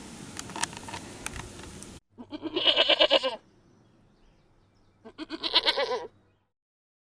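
Two long, wavering bleats from a farm animal, about three seconds apart, each lasting a little over a second.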